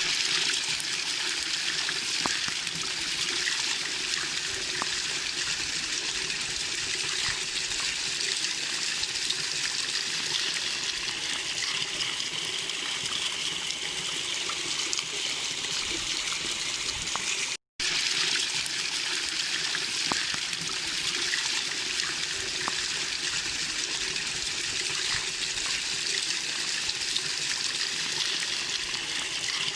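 Small waterfall: a steady, even rush of falling and splashing water. It cuts out for a split second about two-thirds of the way through.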